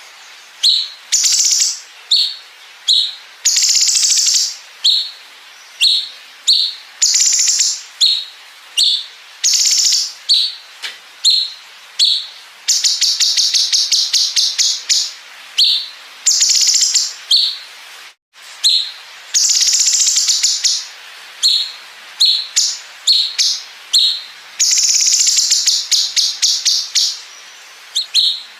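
Cucak cungkok singing: a run of short, sharp high calls broken by longer phrases of fast, even pulses, its cicada-like 'bren' fill. About eighteen seconds in, the sound drops out for a split second.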